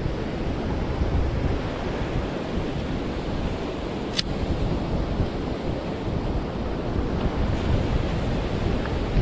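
Ocean surf washing steadily on a beach, with wind buffeting the microphone. One sharp click about four seconds in.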